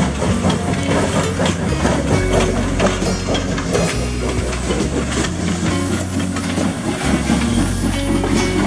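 Train running along the track, with the clatter of wheels over the rails, mixed with the instrumental part of a song playing over it.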